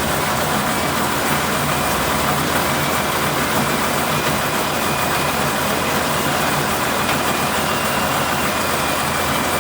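Truck engine running with a steady, unchanging drone.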